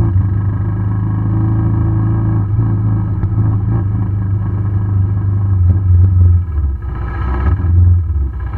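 KTM RC390 motorcycle's single-cylinder engine running steadily under way, with the level dipping briefly twice in the last few seconds.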